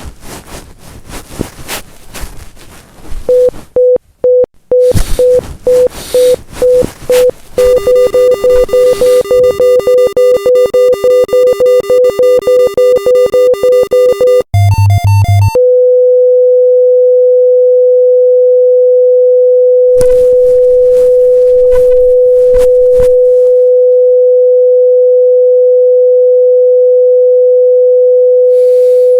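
A hospital heart monitor beeps in time with a heartbeat. Rustling and thumps of a struggle come first, and the beeps grow faster. After a short higher-pitched alarm about halfway through, it goes into a long unbroken flatline tone: the heart has stopped.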